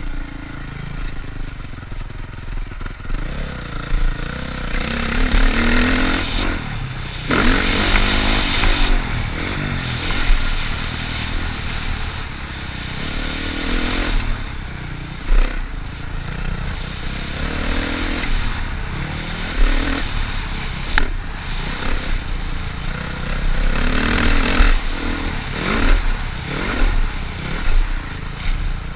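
Motocross dirt bike engine revving up and down over and over as the bike is ridden, its pitch climbing and dropping every couple of seconds, over a constant deep rumble.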